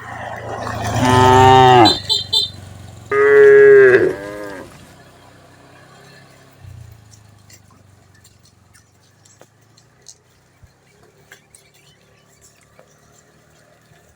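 Cattle mooing: two loud, long moos, the first about a second in and the second near four seconds, each dropping in pitch at the end. Then it goes much quieter, with faint scattered clicks.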